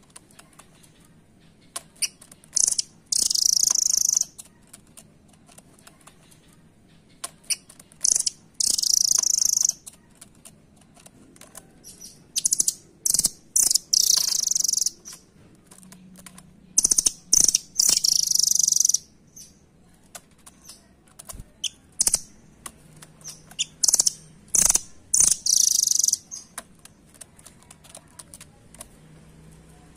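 Nuthatch (rambatan) calling in rapid high-pitched trills, about five bursts of one to two seconds each, with short sharp ticks in between.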